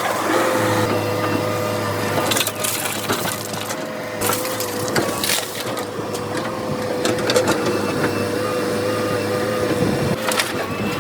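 Heavy machinery running with a steady engine tone, over it repeated crunching and knocking impacts.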